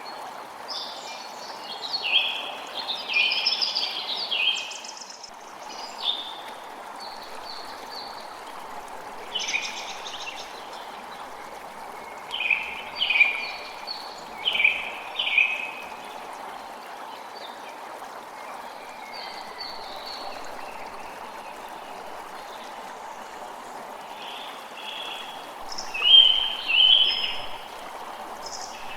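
Creek water flowing with a steady rush, while birds call in short bursts over it, in clusters: a run of calls in the first few seconds, a string of four around the middle, and two loud calls near the end.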